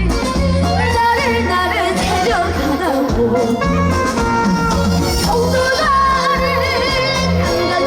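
A Korean trot song performed with a backing track: a singer holds long notes with heavy, wavering vibrato over a steady, repeating bass line.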